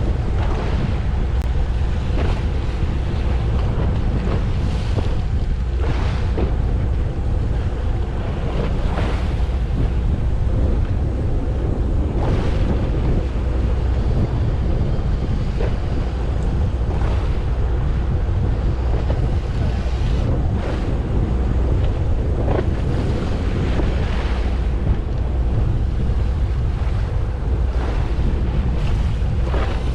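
Steady wind buffeting the microphone on a fishing boat at sea, under a constant low rumble, with water swishing against the hull every few seconds.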